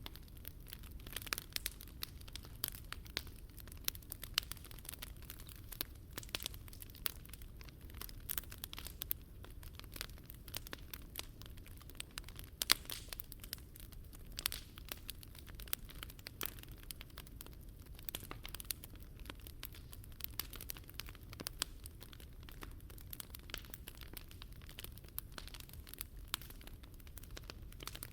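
Wood fire burning, crackling with many irregular small snaps and pops, the loudest about twelve seconds in, over a low steady rumble.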